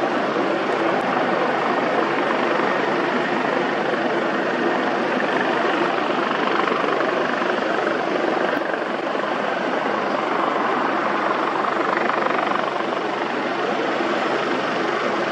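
Aircraft engines running steadily: a continuous rushing noise with a low hum beneath it, unchanging in level.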